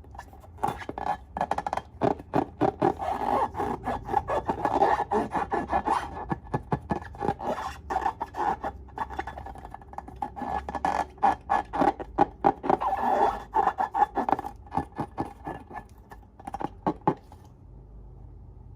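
Slime being squeezed and worked by hand, giving a fast, irregular run of sticky clicks and crackles that thins out near the end.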